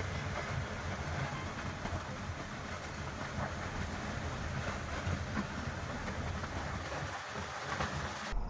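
Tornado winds roaring: a continuous deep, buffeting rumble under a dense rushing hiss, unbroken until an abrupt change near the end.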